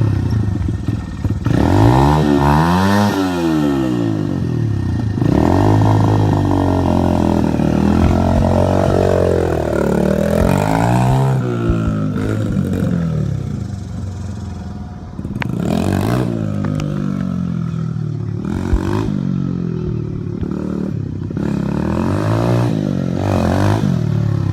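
Honda XR100R's small single-cylinder four-stroke dirt-bike engine running and being revved up and down again and again, its pitch rising and falling every few seconds.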